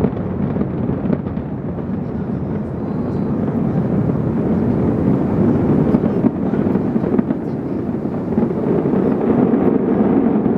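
Aerial fireworks bursting in quick succession, heard as a continuous low roll of overlapping booms with a few faint crackles.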